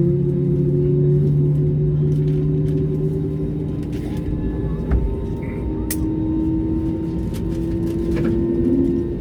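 Airbus A320neo's CFM LEAP-1A engines heard from the cabin during pushback and engine start: a steady hum with several droning tones that shift in pitch. A single thump about five seconds in.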